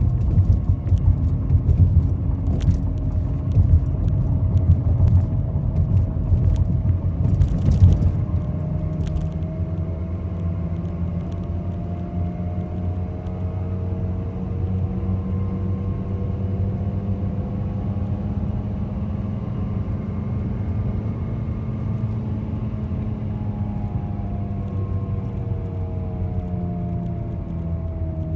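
Chevy Malibu on the move: road rumble with a front-end hum whose pitch slowly rises and falls with speed, which the owner suspects is a worn wheel bearing. Several sharp clicks and knocks come in the first eight seconds, when the rumble is also louder.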